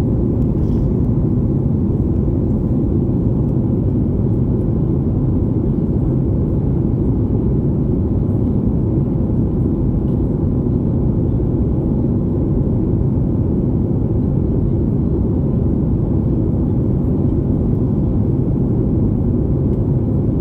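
Steady rumble of a Boeing 737 MAX 8's CFM LEAP-1B engines and rushing airflow heard inside the passenger cabin during the climb, with a faint steady hum running through it.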